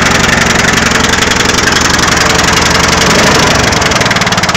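Craftsman lawn tractor's small engine running steadily just after a cold start in freezing weather, its note dropping lower near the end.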